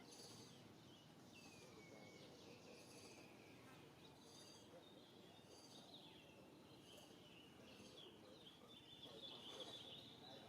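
Faint outdoor ambience: a high, pulsing call repeats about every second and a half, with a short falling whistle about one and a half seconds in and busier chirping toward the end.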